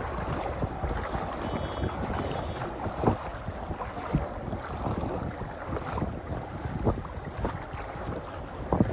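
Wind rumbling on the microphone over the noise of river water, broken by irregular short knocks.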